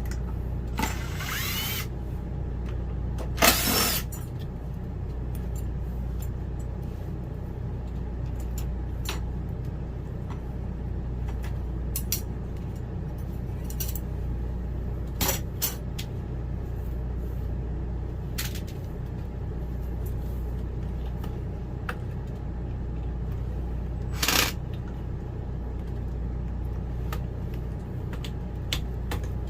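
Scattered small clicks and knocks, with a few short scraping sounds about one, three and a half and twenty-four seconds in, over a steady low hum.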